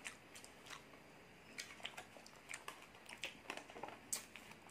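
Faint, irregular wet clicks and smacks of a person chewing a takoyaki ball with squid inside.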